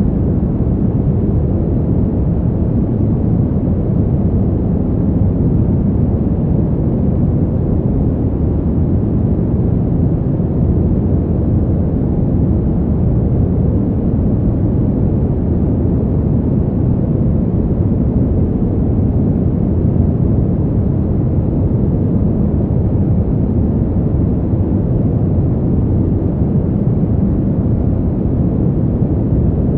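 Steady, unbroken low wind noise for a sleep track, deep and rumbling, with little hiss in the upper range and no gusts or separate events.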